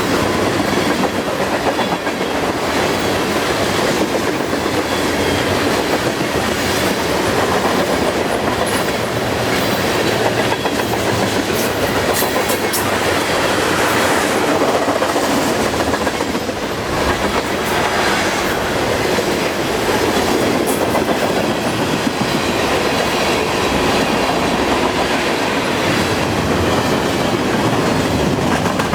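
Freight cars of a long CN freight train rolling past at speed: a steady clatter of steel wheels over the rail joints, with sharp clicks here and there.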